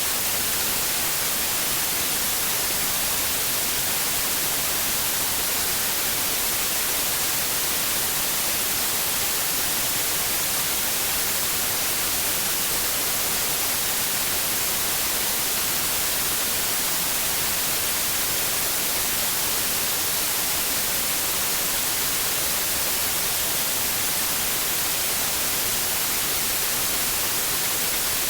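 Steady white noise: an even, unbroken hiss, brightest in the high treble.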